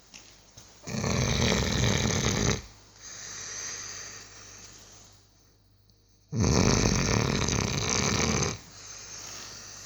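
Six-month-old Cane Corso puppy snoring in its sleep: two long, loud snores about five seconds apart, with softer breathing between them.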